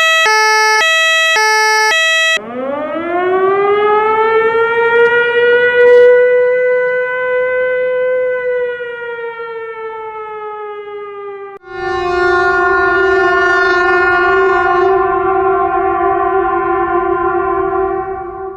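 Emergency-vehicle siren and horn sounds in sequence. First a two-tone siren alternating quickly between a high and a low note. Then, a couple of seconds in, a siren winds up slowly in pitch, holds and slowly sags, and at about the two-thirds point a long, steady, single-note horn blast sounds until just before the end.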